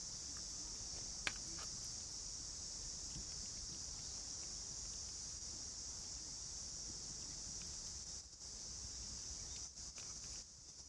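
A steady, high insect chorus, like crickets trilling, with a single sharp click about a second and a half in.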